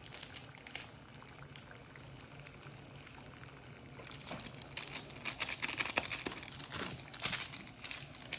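Packaging crinkling and crackling in irregular bursts as it is handled, starting about four seconds in after a quiet stretch.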